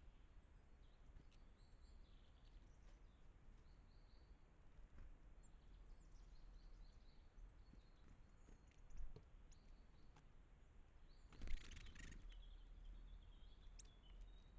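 Small forest birds calling faintly with short high chirps, over a low outdoor background, with a brief noisy rustle about eleven and a half seconds in followed by a run of calls.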